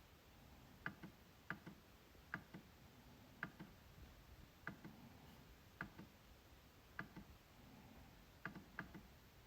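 MacBook trackpad being clicked: faint, sharp clicks about once a second, several of them followed closely by a second, softer click.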